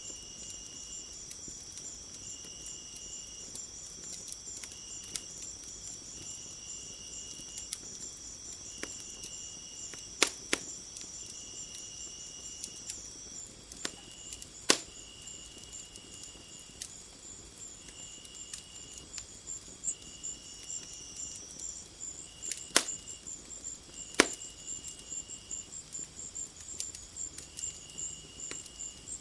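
Wood fire crackling, with about five loud sharp pops among many smaller crackles. Behind it runs a steady chorus of chirping insects: a high continuous trill, and a lower chirp that comes and goes in short runs.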